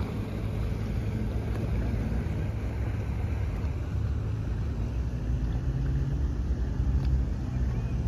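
Steady low engine rumble of passing motor traffic, with a faint engine drone in the second half.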